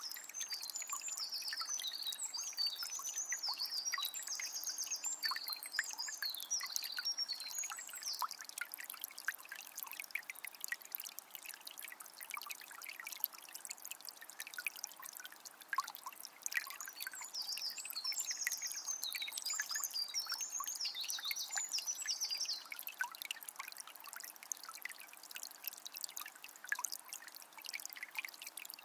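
A shallow forest river trickling and splashing steadily over stones. A songbird sings in two bouts of quick phrases, one at the start and another a little past the middle.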